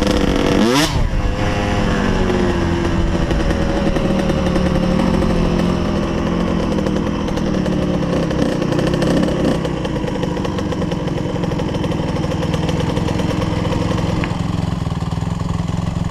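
Motocross bike engine with a quick blip of the throttle about a second in, then dropping in pitch as it slows and settling into steady low-rpm running.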